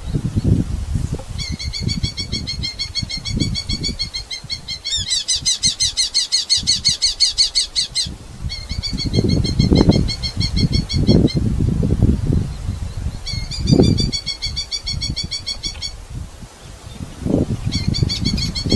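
Red-footed falcons calling in bouts of rapid, repeated shrill notes, about five bouts, the fastest and loudest a few seconds in. Low thumps and rustling run underneath.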